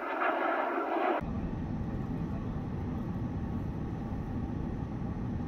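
Steady low rumble of a moving vehicle, after an abrupt cut about a second in from a higher hissing band of noise.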